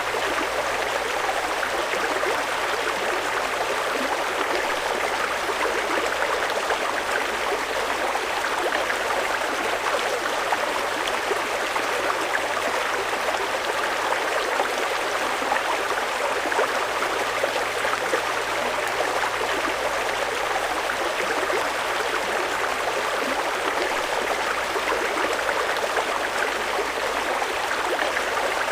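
Fast-flowing mountain river rushing steadily, an even, unbroken roar of water.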